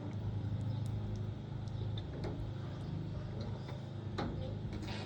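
A motor runs with a steady low hum, and several sharp clicks and knocks come through it every second or so.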